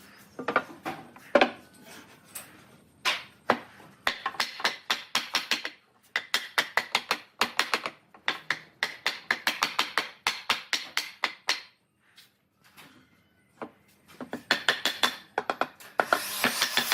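Rapid runs of light hand-tool strikes on wood, about six a second, with a pause in the middle. A steady hiss starts near the end.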